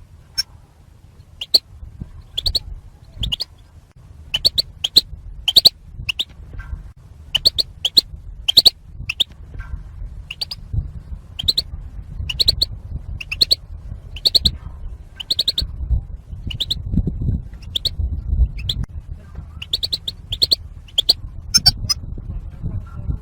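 European goldfinches giving their short, sharp call notes in quick pairs and triplets, over and over at uneven gaps. These are the contact calls ("batbata") of female goldfinches that keepers play to set a male singing. A low rumble runs underneath and swells for a few seconds about two-thirds of the way through.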